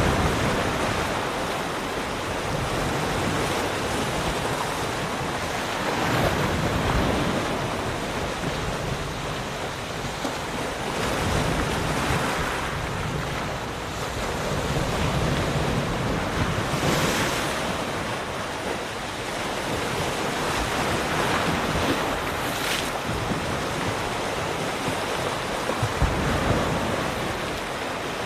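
Ocean waves breaking and washing on a shore in a steady surf, swelling and easing every few seconds.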